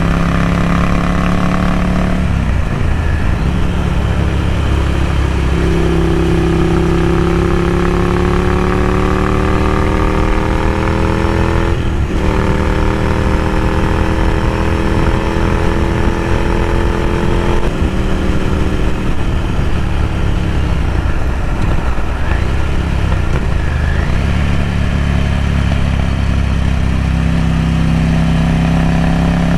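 Ducati Scrambler Café Racer's air-cooled 803 cc L-twin through a Vance & Hines slip-on exhaust, riding under way. The engine note climbs with a sharp break for a gear change about twelve seconds in, backs off and falls away for several seconds after that, then settles to a steady run near the end.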